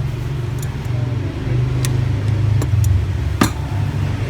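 An engine idling steadily, with several sharp clicks during the second half and one louder clack a little after three seconds in.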